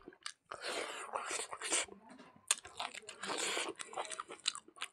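Close-up chewing of a mouthful of rice eaten by hand, wet smacking and clicking in two long stretches.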